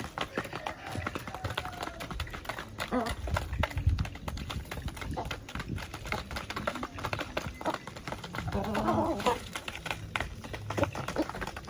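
Farm poultry calling now and then over a steady run of clicks and taps, with a longer call about nine seconds in.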